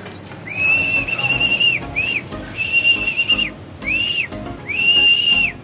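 A hand whistle blown in a pattern of long and short steady high blasts, about five in all: a pigeon fancier calling his racing pigeons down off the roof and into the loft.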